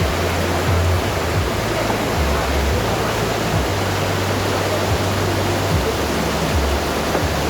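Steady heavy rain, an even, full hiss with no breaks.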